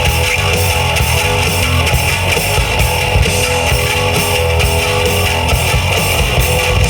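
Rock band playing live: electric guitars, bass guitar and drum kit together in a steady, loud passage.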